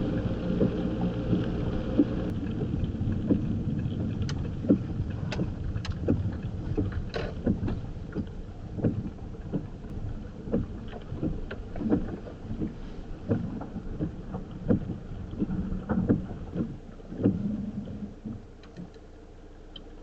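Campervan engine running, heard from inside the cab, with many short irregular taps and knocks over it. Near the end the engine note drops away.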